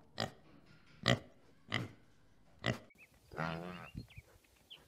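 A pig grunting: four short, sharp grunts, one every second or less. Near the end a different short, pitched call of under a second follows.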